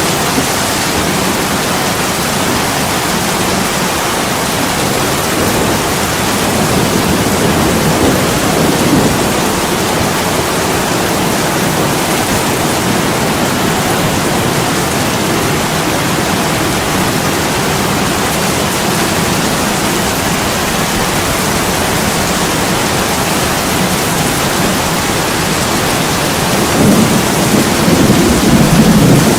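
Heavy rain pouring steadily on an attic window glass. A low rumble swells up near the end.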